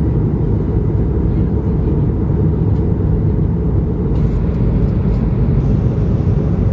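Inside an Airbus A220-300 cabin in flight: steady low rumble of engine and airflow noise, unchanging in level, with a few faint light clicks in the second half.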